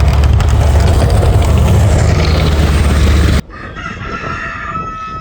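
A loud, low rumble cuts off abruptly about three and a half seconds in, and a rooster crows after it.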